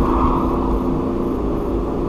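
Car driving at steady speed: continuous engine hum and tyre road noise, with a faint engine drone that fades about half a second in.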